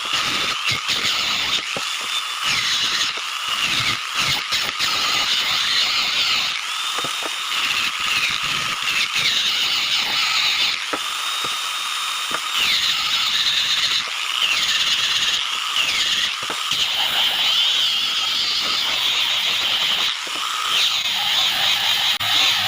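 High-speed electric power tool working wood, its whine repeatedly dipping in pitch and recovering as it bites into the wood and is eased off.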